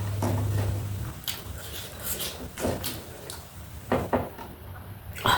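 Eating sounds: irregular short clicks and crunches of chewing and of a utensil knocking on a dish, with a low hum in the first second.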